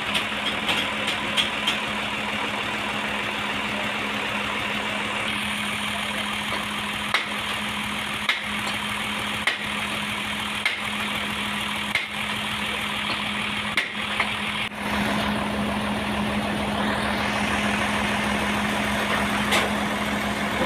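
Sawmill's engine running steadily with a constant hum, and sharp clicks about once a second through the middle. A little past the middle the sound grows fuller and slightly louder.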